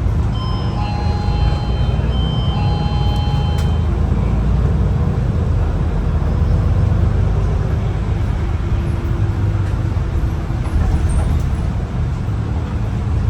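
Cabin noise aboard a MAN ND323F double-deck bus with a Euro 6 diesel engine: a steady, loud low engine and road rumble, with a few short high electronic tones in the first four seconds.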